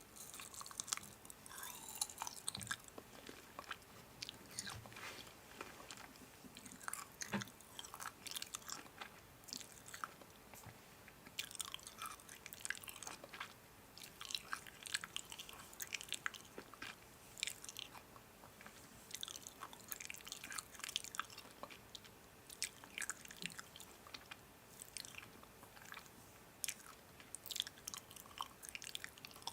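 Someone chewing and biting crunchy food: many short, crisp crunches and crackles at an irregular pace.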